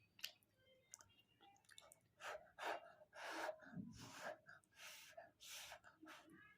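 Faint sounds of a person eating momos: a run of short, breathy puffs of air and mouth noises, starting about two seconds in.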